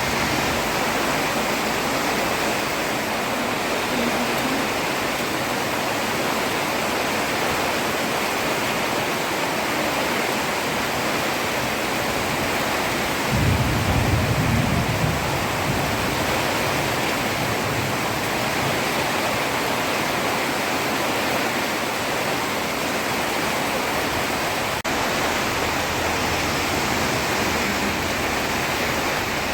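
Heavy rain falling steadily on a road, an even dense hiss, with a brief low rumble about halfway through.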